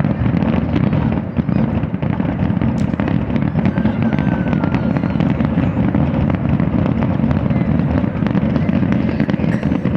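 Fireworks going off in a dense, unbroken barrage: rapid overlapping booms and crackling with no pause.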